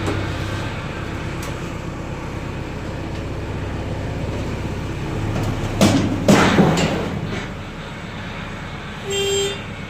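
An engine running steadily, with three or four loud clanks about six seconds in and a short beep near the end.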